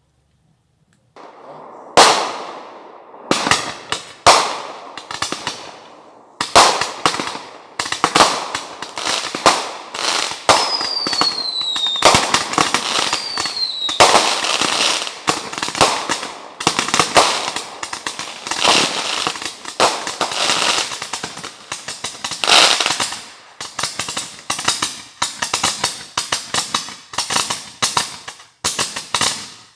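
Fireworks going off in quick succession, starting about a second in: a dense run of loud bangs and crackling. Two short falling whistles come near the middle.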